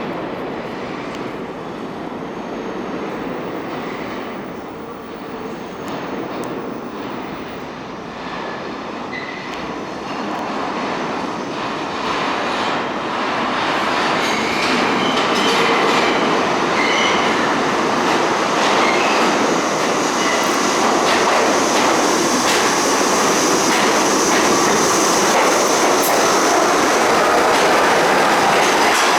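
R68 subway train pulling into the station, its wheels clattering on the rails, growing steadily louder as it nears. A high wheel squeal joins in from about halfway through.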